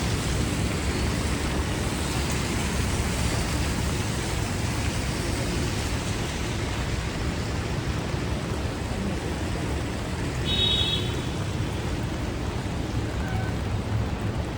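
Steady hiss of rain and of traffic on wet city streets, over a low rumble. A brief high-pitched beep comes about ten seconds in.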